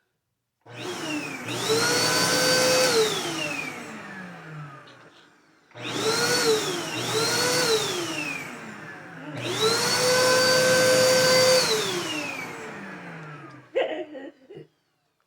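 Vacuum cleaner motor switched on and off three times. Each time its whine rises quickly, holds, then falls away as the motor winds down, and the middle run has two short revs in a row. A few clicks near the end.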